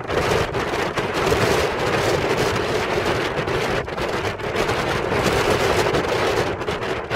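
Strong wind buffeting the microphone over the continuous rush of heavy surf breaking on the shore.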